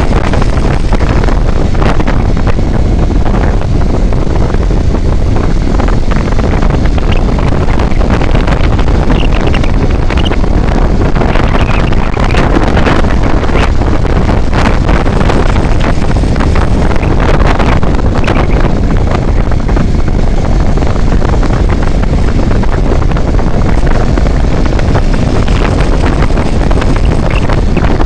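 Wind buffeting the microphone of a moving vehicle: a loud, steady rush with the vehicle's road and engine noise under it.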